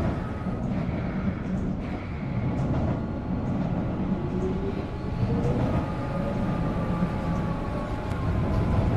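Seoul Metro Line 2 subway train running, with a steady low rumble from the wheels and running gear. From about four seconds in, an electric motor whine rises steadily in pitch as the train picks up speed.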